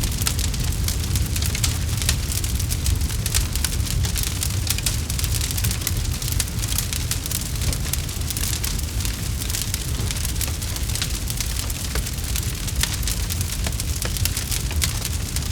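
Campfire crackling: a dense, continuous patter of small snaps and pops over a steady hiss, with a low rumble underneath.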